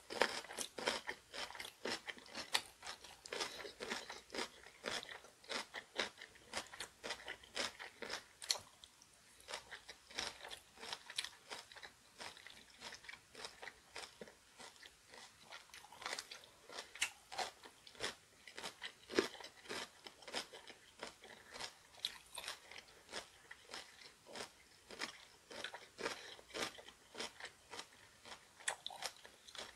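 Close-up crunching and chewing of crisp, spicy kimchi: a steady run of sharp crunches, about two or three a second, softer for a few seconds midway.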